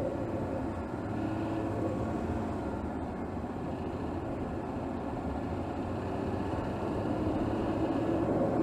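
Mercedes GLS 450's turbocharged 3.0-litre inline-six, recorded from under the bonnet, running steadily under light load in city driving. Its level eases slightly in the first seconds and picks up again about seven seconds in.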